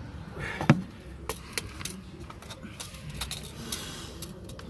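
Metal tools and parts clinking and knocking during work in an engine bay, with one louder knock about 0.7 seconds in followed by a string of lighter clicks.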